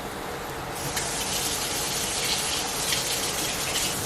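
Egg rolls deep-frying in hot peanut oil: a steady sizzle that gets louder about a second in.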